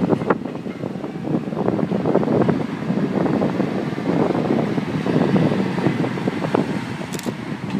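KiHa 40 diesel railcars on a shunting move in a station yard: a steady rumble with many sharp clicks and rattles.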